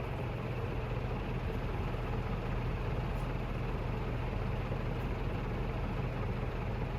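HRS industrial ceiling fan (a Canarm CP56 type, three curved metal blades) running on high speed: a steady motor hum under rushing air. At this speed the blades twist and make a lot of noise.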